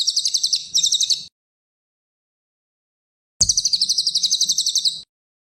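Cililin song: rapid, high-pitched trilled phrases of about a dozen notes a second. One phrase ends about a second in, and a second phrase starts and stops abruptly near the end.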